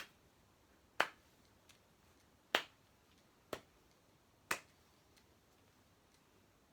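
Five short, sharp clicks at uneven intervals, spread over the first four and a half seconds, with quiet in between.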